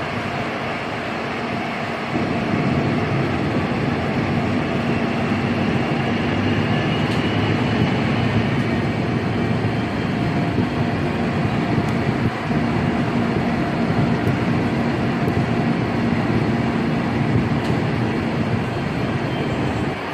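Busan Metro Line 2 subway train running between stations, heard from inside the car: steady wheel-on-rail and running noise that gets a little louder about two seconds in, with a faint high whine rising slowly through the middle.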